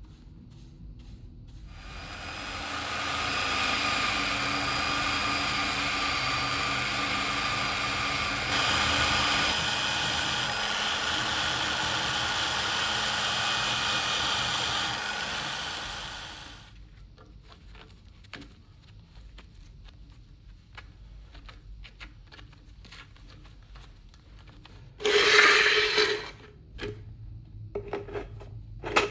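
A small power tool runs for about fifteen seconds, a steady whine over a rough rubbing, grinding noise, coming up at the start and dying away. After it come scattered light clicks and a short loud scrape near the end.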